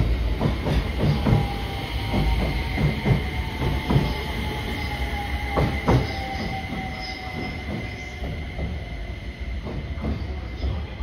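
FV-E991 hydrogen-hybrid train running through a station, its wheels clicking over rail joints in an irregular series, with a steady high wheel squeal and a faint whine that slowly falls in pitch.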